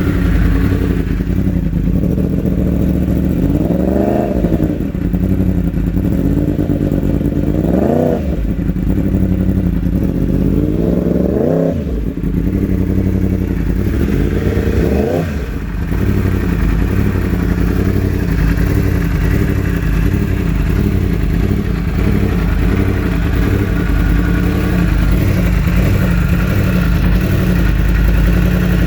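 2016 Yamaha R1's crossplane inline-four engine idling, with the throttle blipped four short times in the first half and then idling steadily. It is running without its earlier misfire, which the owner cleared by swapping the fuel injectors of cylinders 1 and 4.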